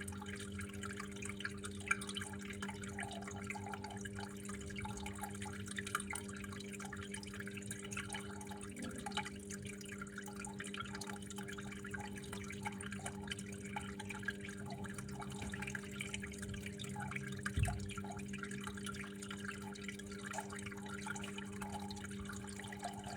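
Water steadily trickling and dripping, with a continuous low hum underneath and one soft thump late on.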